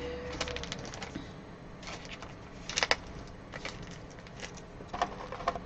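Trading cards and pack wrappers being handled: scattered light clicks and rustles, with one sharper snap just before three seconds in.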